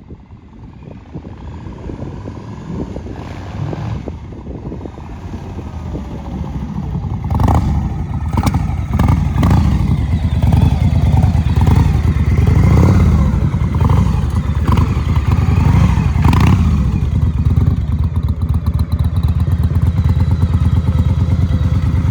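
A 2001 Victory motorcycle's V-twin engine running, growing louder over the first seven seconds or so, then a loud steady low rumble. Several sharp loud moments come in the middle.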